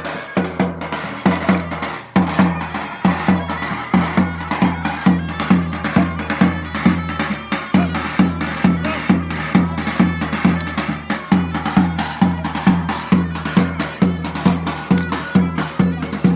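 Turkish folk dance music for a halay: a shrill reed-pipe melody over a steady drum beat of about three strikes a second.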